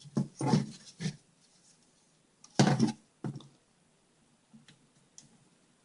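A few short rustling and scraping handling noises, with light taps, as a small replacement capacitor is fitted into a TV power board. The noises come in the first half and then die down to faint ticks.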